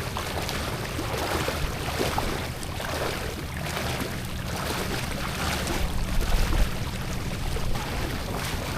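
Motorboat running across open water: a steady engine drone under rushing wind on the microphone, with a heavier low buffet about six seconds in.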